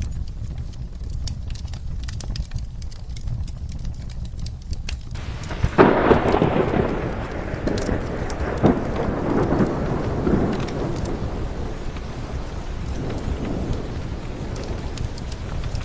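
Steady rain with scattered crackles from a fireplace fire. About six seconds in, a thunderclap breaks and rolls on, fading over several seconds.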